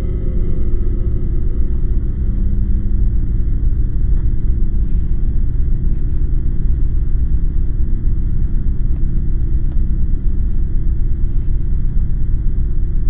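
A loud, steady low rumble that does not let up.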